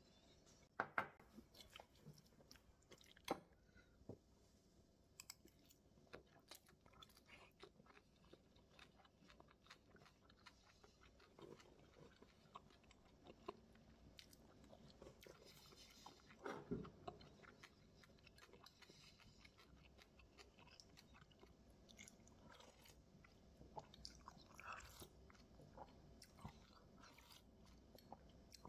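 Faint close-up eating sounds: bibimbap being chewed in crunchy mouthfuls, with irregular sharp clicks and knocks scattered throughout and a louder cluster a little past halfway.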